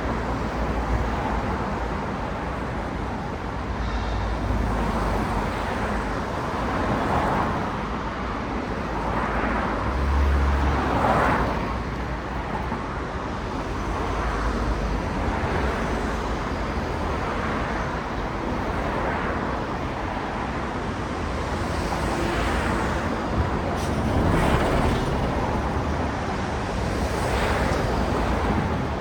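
City road traffic: a steady stream of cars passing one after another, tyre and engine noise swelling and fading every few seconds.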